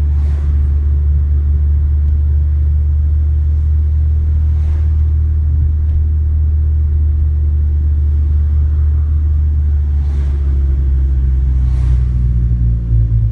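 Chevrolet Sonic's turbocharged 1.4-litre four-cylinder engine and road noise while driving: a steady low rumble, with the engine note shifting about twelve seconds in.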